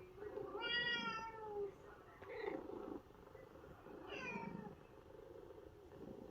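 Domestic cat meowing: one long drawn-out meow with a slightly falling pitch about a second in, then two shorter meows, the last one falling.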